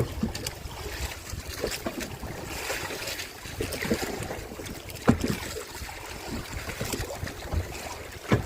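Water sloshing and splashing, with wind buffeting the microphone and irregular knocks; the loudest knock comes about five seconds in.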